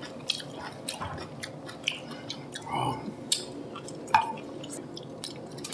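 Close-up eating sounds: soft chewing and biting of acorn jelly roll (muk-chongtteok), with scattered light clicks of utensils on tableware.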